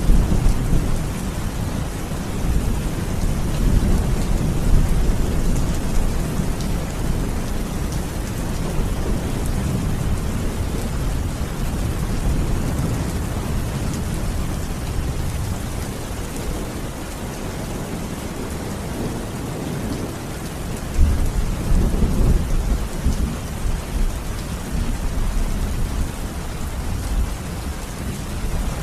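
Steady heavy rain with low rolling thunder. The rumble swells near the start and again about two-thirds of the way through.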